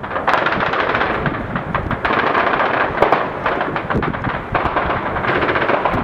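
Sustained automatic gunfire: many rapid shots fired together in long, overlapping bursts, loud throughout.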